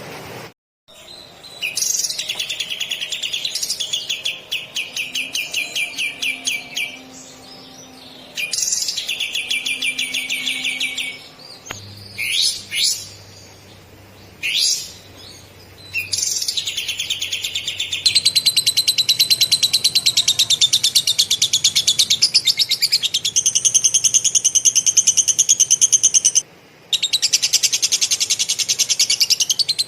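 Kapas tembak songbird singing lovebird-style material: fast, tightly packed trills in short phrases, then a long unbroken rolling trill that pauses briefly once near the end.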